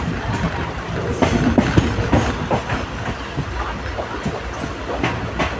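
Passenger train running on the rails: a steady low rumble with irregular knocks and clatter from the wheels and carriages.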